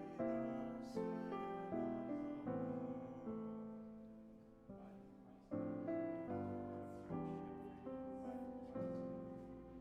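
Piano playing a slow, quiet piece in full chords. Each chord is struck and left to fade, with a softer lull about halfway through before the chords come in again.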